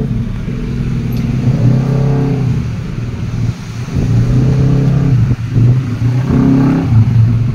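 A motorcycle engine running, its note swelling and easing with the throttle, with brief dips in level about three and a half and five and a half seconds in.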